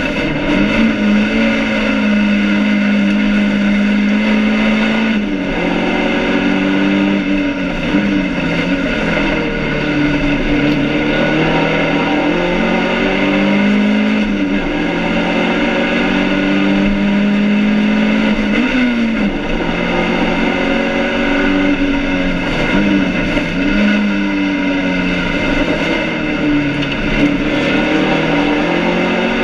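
BMW 2002's four-cylinder engine at full race effort, heard inside its stripped cabin. The engine note holds high, then drops sharply and climbs again several times as the driver shifts gears and lifts. The driver is short-shifting to nurse an overheating engine.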